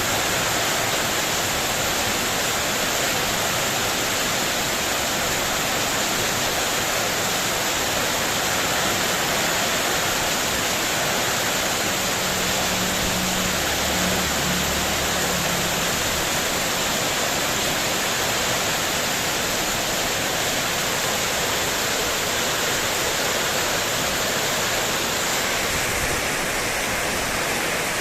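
Heavy rain falling steadily on spandek metal roofing sheets, an even, dense hiss that does not let up.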